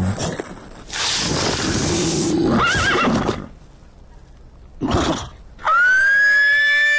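Cartoon sound effects: a rushing noise with a brief wavering, whinny-like cry, a short burst, then a long high-pitched held tone with a quick rise at its start, beginning near the end.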